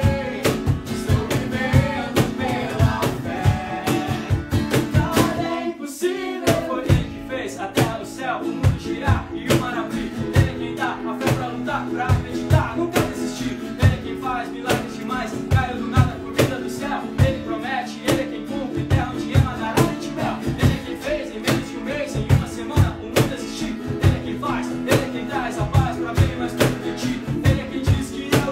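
A song played live: singing over guitar, with a steady beat and a brief break about six seconds in.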